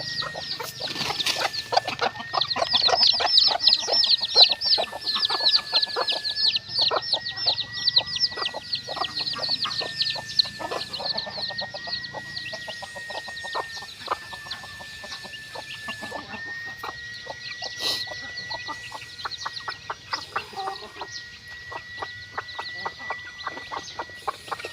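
A flock of chickens clucking and peeping in a dense, rapid chatter, busiest in the first ten seconds and thinning after, over a steady high whine.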